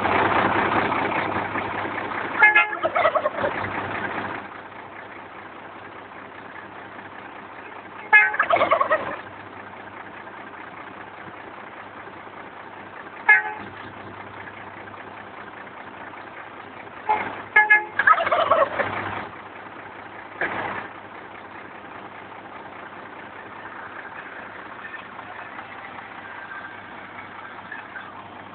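Short toots from a garbage truck's air horn, several times, each answered by wild turkey toms gobbling in a falling, rattling call. The truck's engine idles steadily underneath.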